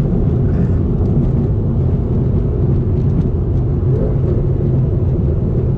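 Supercharged LT4 V8 of a Camaro ZL1 1LE with an aftermarket cam, headers and Corsa Extreme exhaust, running steadily while driving, a loud, even low drone with no big revs.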